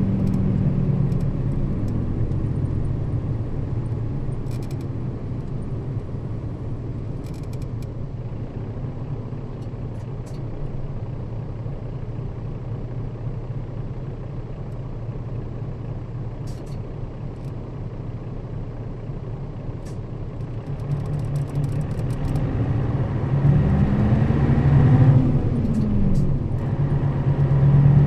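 Nissan Diesel route bus's diesel engine heard from inside the cabin. The engine note drops away at the start and runs quieter for a long stretch, then the bus speeds up from about 21 seconds in, with the revs rising and falling once around 24 to 26 seconds before settling.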